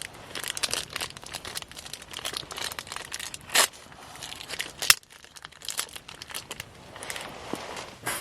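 Plastic food packaging being crinkled and torn open, with a run of small crackles and one longer tearing stroke about three and a half seconds in.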